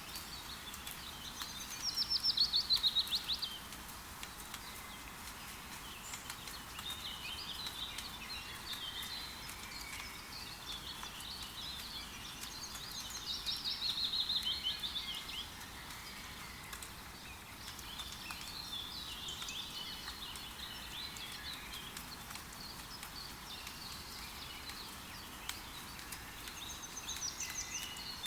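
Steady hiss of rain falling in a forest, with birds singing over it: a loud, fast trill that falls in pitch about two seconds in and again around thirteen seconds in, with softer chirping and warbling in between.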